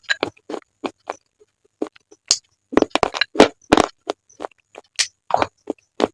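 Slate pencils being bitten and chewed close to the microphone: quick, irregular crisp cracks and crunches, with a short pause about one and a half seconds in.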